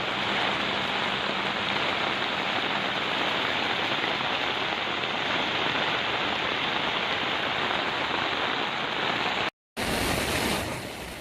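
Heavy rain pouring down in a steady, dense hiss. It cuts out abruptly about nine and a half seconds in, and a quieter rushing noise follows.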